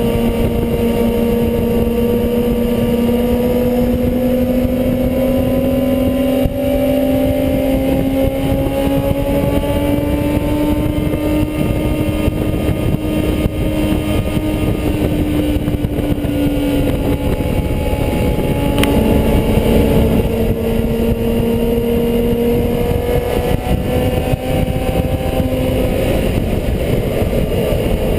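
Motorcycle engine running steadily at a held speed, its pitch drifting slowly up and down, with a single sharp click about two-thirds of the way through.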